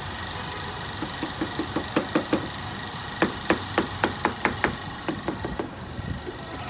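A quick run of hammer taps, about four or five a second, starting about a second in and stopping shortly before the end, over a steady background hum.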